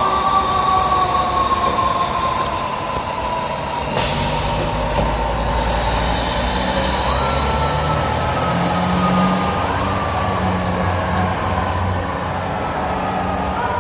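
Fire apparatus siren sounding as the engine and ladder truck pull out: a tone that jumps up and then slowly falls in pitch, sounded again about seven seconds in and once more near ten seconds, over a diesel engine rumble. A sudden noisy burst comes about four seconds in.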